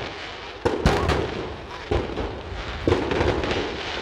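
Fireworks display: a string of sharp bangs about a second apart, each followed by a fading tail.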